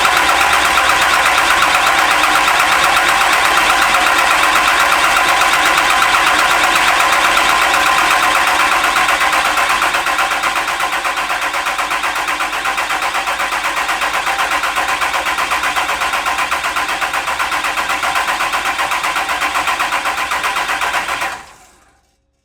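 Starter cranking a Cummins inline-six diesel with its injector harness unplugged, so the engine turns over without firing, in a fast, even chugging rhythm that eases slightly partway through and cuts off suddenly near the end. The engine is being spun on the starter to build oil pressure before a first real start.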